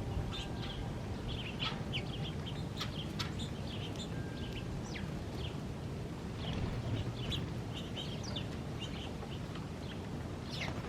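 Small birds chirping: many short, quick chirps and calls, several at once, over a low steady rumble.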